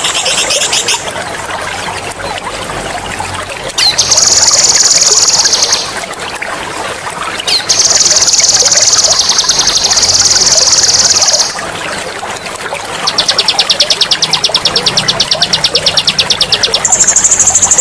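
A songbird singing loud, sharp rolling trills: very fast, even, high-pitched runs, each lasting one to four seconds, with short pauses between them. A steady trickle of running water sounds underneath throughout.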